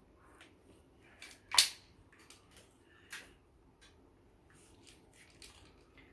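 Craft sticks and tools being handled on a table: scattered light clicks and taps, with one sharp click about one and a half seconds in and a smaller one about three seconds in.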